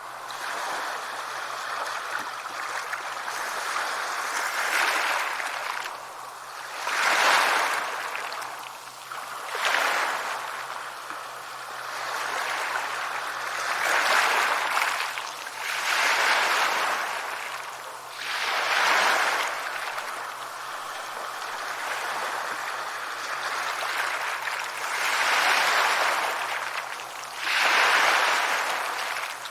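Sea waves breaking and washing up a beach: a continuous hiss of surf that swells into a louder breaker every few seconds, then draws back.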